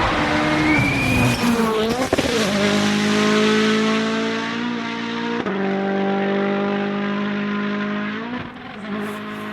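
Rally car engine at high revs. Its pitch falls over the first two seconds, then holds steady with a brief break for a gearshift about five seconds in, and drops away near the end.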